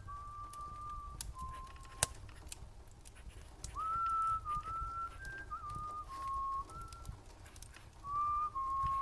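A person whistling a slow tune in held, stepped notes, in three short phrases, over a low steady rumble. A single sharp pop sounds about two seconds in.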